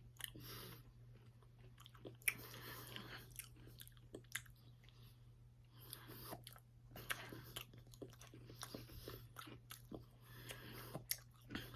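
Faint chewing and crunching close to the microphone: a person eating a spoonful of soft-serve ice cream with hard bits of pie crust mixed in.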